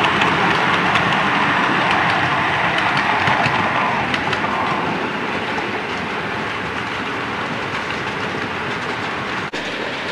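Train running along the track, with a steady clickety-clack of wheels over rail joints that eases off a little after about five seconds.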